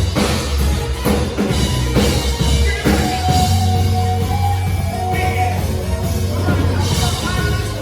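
Live rock band playing: drum kit, bass and a held higher note in the middle, with some singing.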